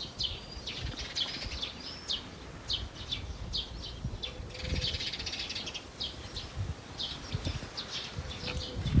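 Small birds chirping, with short high calls repeated throughout, over a low rumble of wind on the microphone.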